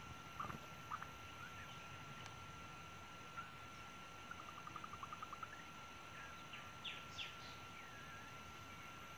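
Birds chirping and calling: scattered short chirps and sweeps, with a quick trill of about ten notes midway, over a faint steady high-pitched tone.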